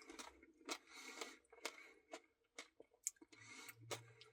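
Faint eating sounds, a scattering of soft irregular clicks and smacks.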